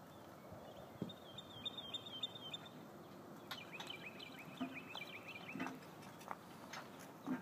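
A bird calling in rapid trilled runs of about two seconds each, twice, over scattered faint knocks and thuds.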